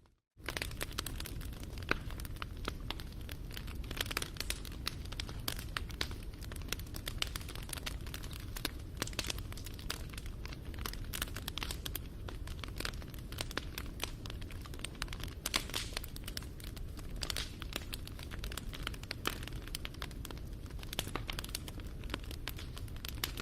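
Wood fire crackling and popping steadily: many small sharp snaps over a low rumble of the burning fire, after a brief dropout at the very start.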